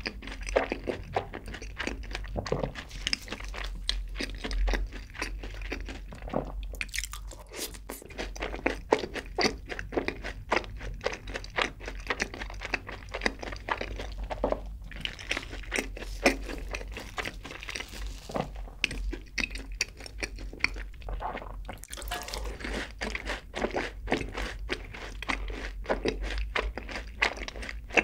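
A person chewing crisp breaded fried food close to the microphone: a dense, continuous run of small crunches and crackles with the mouth full.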